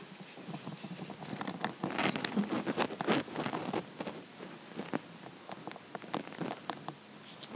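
Rustling and irregular small crackles and clicks from hands working plant material into a floral arrangement, as a wired bulb is pushed in among moss; busiest a couple of seconds in.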